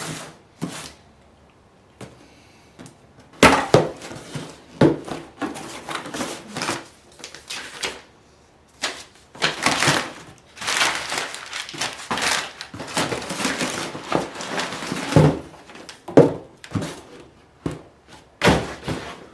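A cardboard box being opened and handled by hand: noisy rustling and scraping of cardboard and packing, broken by sharp knocks and thumps as the box and the camera box inside it are moved about.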